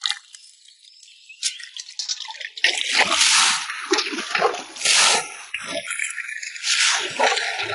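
Water splashing and dripping in irregular bursts. It builds up over the first couple of seconds, with the loudest splashes about three and five seconds in.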